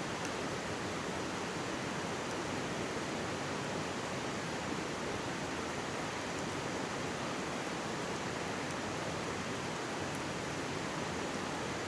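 Mountain stream rushing steadily beside the camp, with a few faint pops from a crackling campfire.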